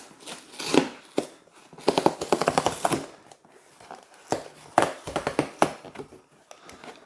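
Handling noise: irregular clicks, taps and light rustling of things being moved about on a table, with a quick run of rattling clicks about two seconds in.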